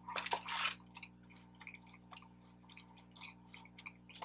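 Faint wet chewing and small mouth clicks of someone eating a breaded mac and cheese bite, a little louder at the very start. A steady low hum sits underneath.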